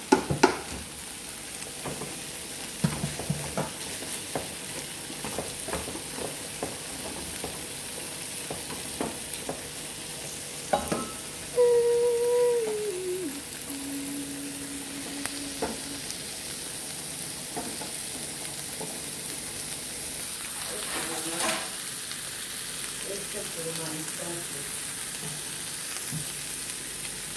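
Liver, broccoli and onions sizzling in a non-stick frying pan as they are stirred, the spatula knocking and scraping against the pan now and then. About midway a loud pitched tone sounds for a few seconds, stepping down in pitch.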